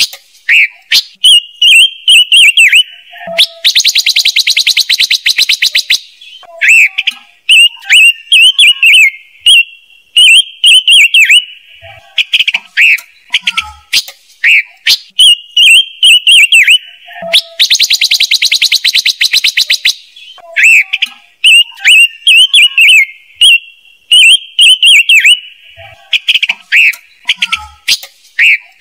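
Loud looped lure recording of ngũ sắc bird calls: quick, bright chirping notes, broken twice by a fast rattling trill about two seconds long, the whole phrase repeating about every fourteen seconds.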